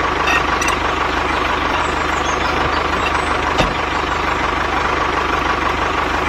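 Tractor engine running steadily, with a rapid, even low beat and a single click about three and a half seconds in.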